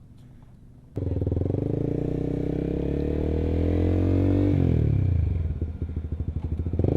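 Honda CBR150R's single-cylinder engine through an R9 aftermarket exhaust, starting abruptly about a second in and climbing steadily in pitch under acceleration. The pitch drops as the throttle closes a little past the middle, with an uneven stuttering note on deceleration before it pulls steadily again near the end.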